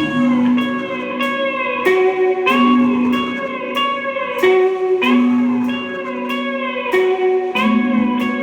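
Instrumental passage of a band playing: electric guitar picking a repeating melodic figure over a steady beat of sharp percussive hits.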